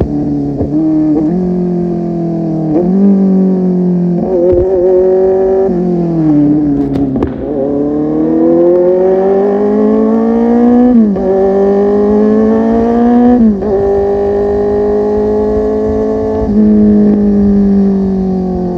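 Kawasaki Z800's inline-four engine through a full-system aftermarket exhaust, revving under way. The revs rise and fall with short throttle changes, drop off about six seconds in, then climb through two sharp upshifts before settling to a steadier cruise.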